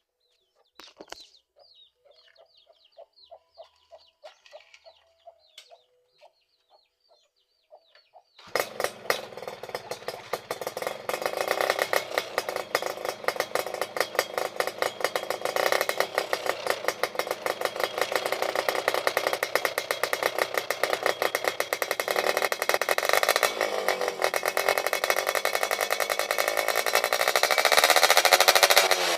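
Suzuki FIZ R two-stroke motorcycle engine with an aftermarket exhaust, coming in loud and abruptly about eight seconds in after some faint clicks, running with a rapid crackling beat; near the end its pitch rises and falls as it revs.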